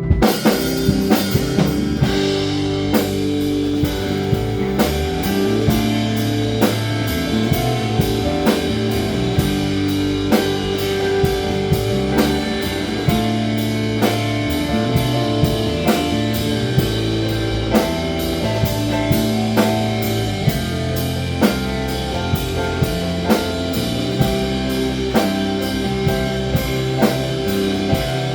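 Rock band playing live, with a drum kit keeping a steady beat under electric guitar and bass. The full band comes in sharply right at the start.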